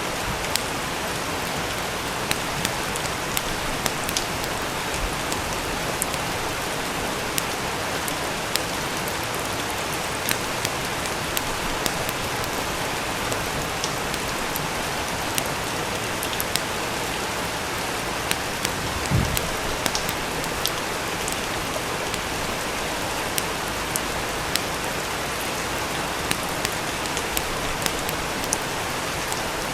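Steady rain with a fireplace crackling: scattered sharp pops over an even hiss. A brief low thump comes about two-thirds of the way through.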